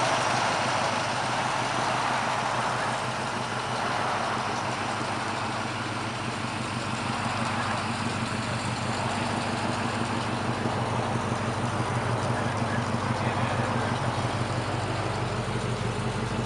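Ford 351 V8 of a 1970 Mustang Mach 1 running, a steady low engine note with an even pulsing exhaust beat.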